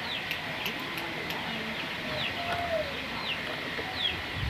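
A burung puter (collared dove) gives a single low coo about halfway through, over the repeated short, falling chirps of small birds.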